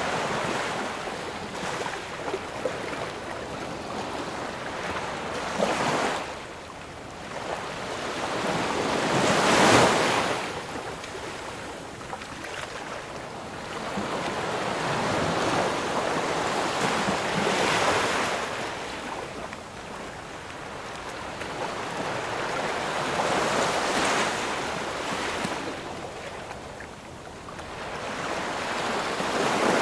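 Ocean waves breaking on a shore, each wave swelling and washing out in a slow rhythm, one every six to eight seconds, with the loudest break about ten seconds in.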